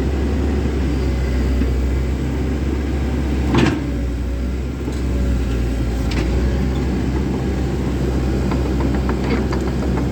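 Komatsu 130 excavator's diesel engine running steadily under work, with a single sharp metallic clank about three and a half seconds in and a few lighter clicks near the end.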